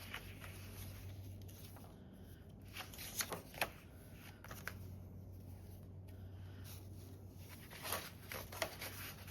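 Paper journal cards being handled on a tabletop: soft paper rustling and slides with a few light taps, bunched about three seconds in and again near the end.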